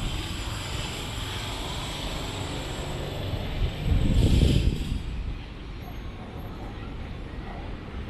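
Steady city traffic noise, with a louder low rumble swelling and fading about four seconds in.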